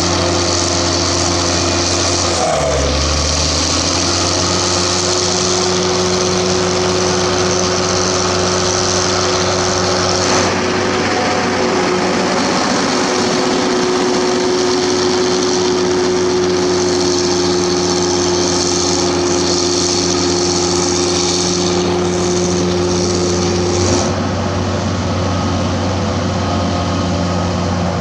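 Shantui SD16F bulldozer's turbocharged diesel engine working under load while pushing sticky clay, with a steady turbo whistle over the engine note. The engine pitch sags briefly about three seconds in, then holds steady; near the end the high whistle drops away.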